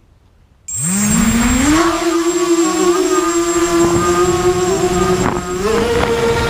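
QAV250 race quadcopter's brushless motors and propellers spinning up suddenly about a second in: a loud whine that rises in pitch, then holds steady and steps higher near the end.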